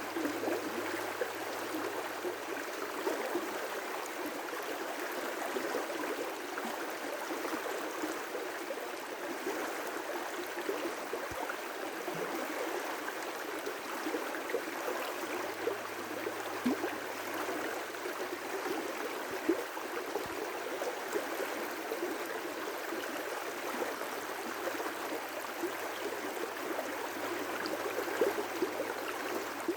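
River rapids: water rushing and splashing over rocks in a steady, unbroken rush.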